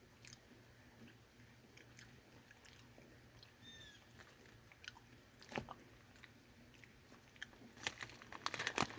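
A person chewing pieces of a crunchy nut bar: faint scattered crunches that come more often and louder near the end.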